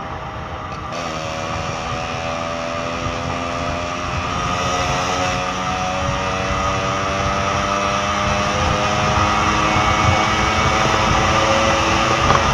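Two-stroke motorcycle engine running as it rides, its pitch climbing slowly as it picks up speed after a brief blip about a second in. Wind and road noise run underneath, and the sound grows louder toward the end.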